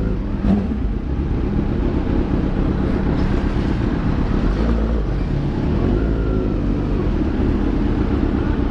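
Kawasaki inline-four motorcycle engine running on the move, its pitch rising and falling a little, under a steady rushing noise.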